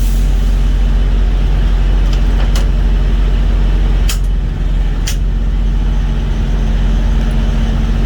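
An engine running steadily at idle with a low hum, over which come a few sharp clicks from parts or tools being handled.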